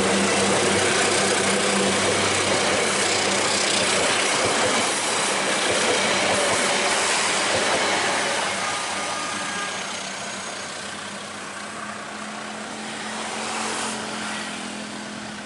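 A train running past, its diesel locomotive's engine hum over a loud rushing rolling noise that fades away over the second half.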